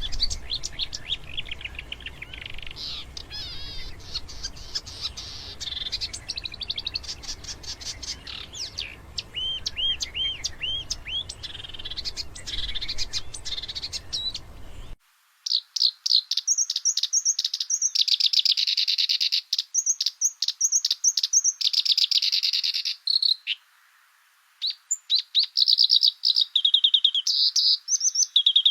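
Songbirds singing: a dense run of chirps, whistles and trills over a low background rumble. About halfway there is a sudden cut to a cleaner recording of fast, high trills and chirps broken by short pauses.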